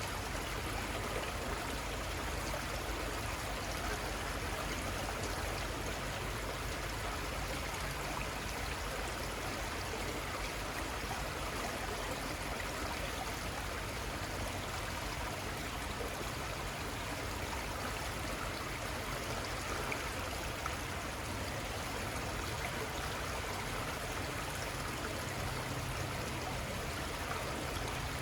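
The Little Conestoga River flowing, a steady even rush of running water.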